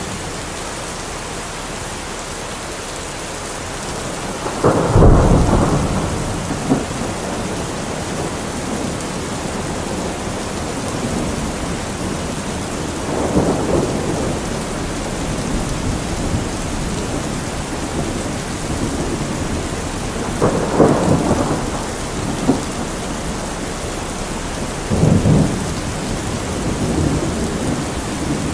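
Heavy rain drumming steadily on a metal roof, with rolls of thunder rumbling through it four times, the loudest about five seconds in.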